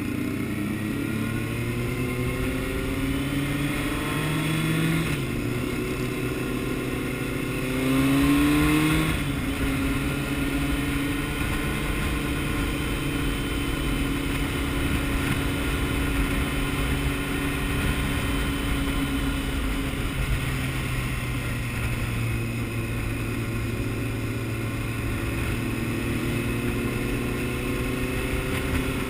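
Honda CBR600F inline-four motorcycle engine on the move, under the rider's own handlebars. It climbs in pitch through two gears, with a drop after each shift, the second pull about 8 to 9 seconds in being the loudest, then settles into a steady cruise over a low rush of wind.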